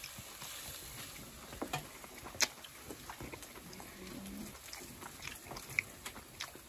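Faint sizzle of pork belly frying on an iron griddle, with a few sharp clicks of utensils against the plate and a brief low voice-like sound near the middle.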